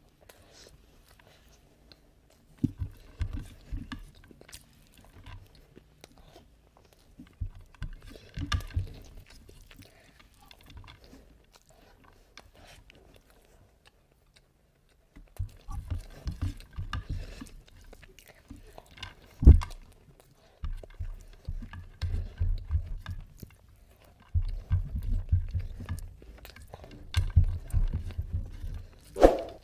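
Close-miked chewing and mouth sounds of someone eating mutton biryani by hand, coming in irregular clusters with a quieter stretch midway, along with fingers gathering rice on the plate and a few sharp clicks.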